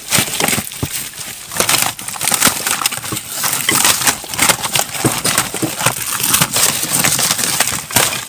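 Rubbish being rummaged through by hand in a dumpster: a dense, irregular run of plastic crackling, rustling and small knocks.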